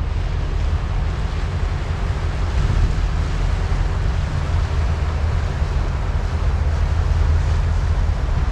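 Low, steady rumble of a passing general cargo ship's engine, mixed with wind buffeting the microphone.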